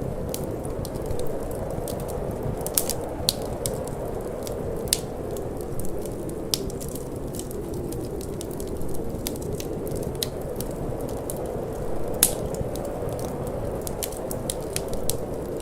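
Wood fire in a fireplace crackling, with irregular sharp pops and snaps, the loudest about twelve seconds in. Under it runs a steady low rush of wind.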